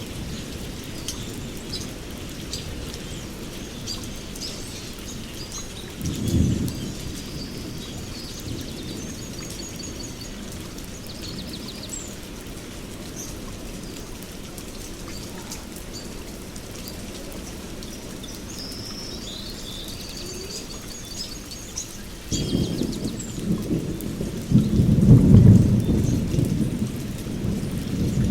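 Steady heavy rain with thunder: a short rumble about six seconds in, then a longer, louder rumble building near the end. High bird chirps and trills sound over the rain.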